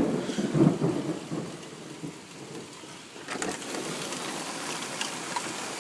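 A thunderclap rumbles in suddenly at the start and fades over about two seconds, over steady heavy rain. About three seconds in, the rain grows louder and hissier.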